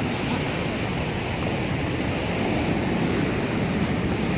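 Atlantic surf: waves breaking and washing up the shore in a steady rush of water.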